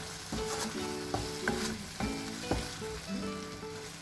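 Thick tomato-onion masala sizzling in a nonstick wok while a wooden spatula stirs and scrapes through it, with several sharp knocks of the spatula against the pan. Soft background music with held notes plays underneath.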